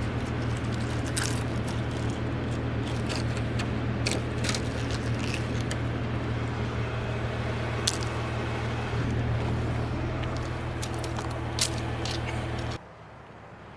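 A vehicle engine running steadily, with many scattered sharp clicks and crackles over it; the sound cuts off abruptly about a second before the end.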